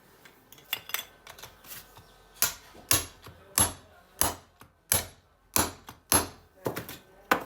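Metal struck repeatedly: about ten sharp, ringing strikes, roughly one every 0.6 s, after a few lighter clicks.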